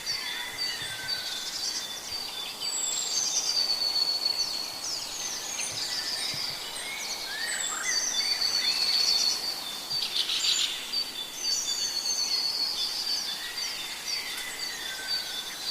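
Several forest birds singing at once: repeated high, fast trills overlapping one another, with a few lower sliding whistles about five to six seconds in.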